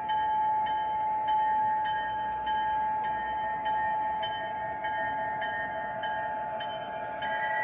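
Locomotive bell ringing steadily, about two strokes a second, from the sound system of an MTH Premier Union Pacific SD60M model diesel, over a steady hum.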